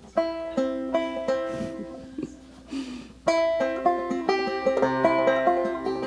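Plucked string instrument picking an instrumental introduction to a folk song: a short picked phrase, a brief lull, then steadier, denser picking from about three seconds in, with a low note joining near the end.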